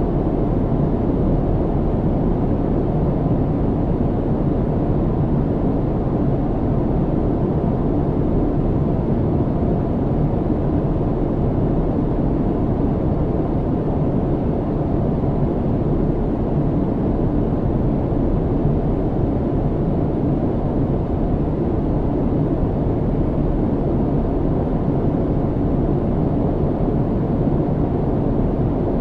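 Steady low cabin noise of an airliner in flight: an even engine and airflow rumble, heavy in the low end, with no change in level.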